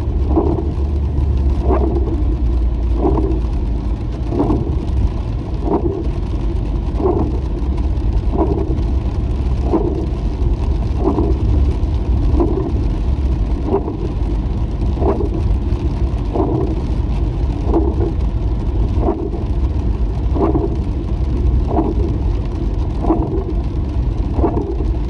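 Inside a moving car: steady road and engine rumble, with windshield wipers sweeping in an even rhythm, about once every second and a third.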